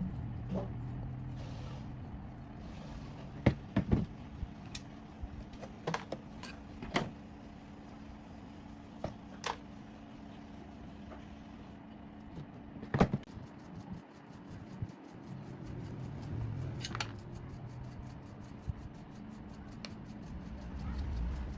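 Scattered sharp clicks and knocks of metal tools and parts being handled during work on an old generator, over a low steady hum. A fine, rapid ticking runs through the second half.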